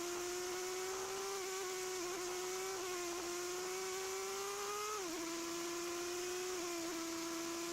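125cc motorcycle engine running under way with a steady whine. Its pitch climbs slowly, drops sharply about five seconds in, then holds steady.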